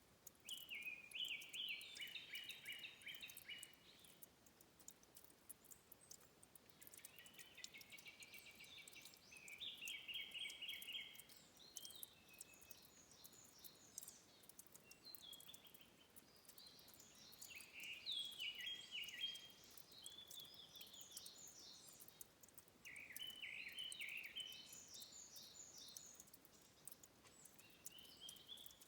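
Faint songbird song in the forest: phrases of quick chirping notes, each lasting two to four seconds, repeating every few seconds with short gaps, over a soft steady background hiss.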